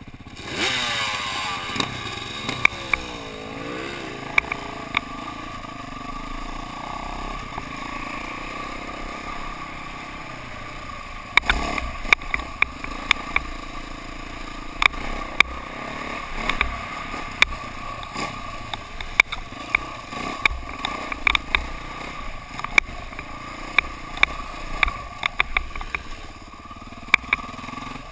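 KTM dirt bike engine running, revved up and down over the first few seconds, then holding a steady pitch. From about eleven seconds in, many sharp clicks and knocks sound over it.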